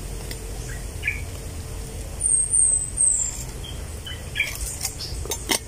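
Wild bird calling with short, high chirps that slide downward, three in quick succession a little over two seconds in. A couple of sharp clicks come shortly before the end.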